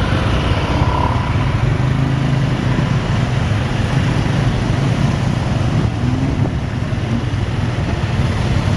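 Motorcycle engine running steadily while riding, heard from the pillion seat, under a steady rush of road noise.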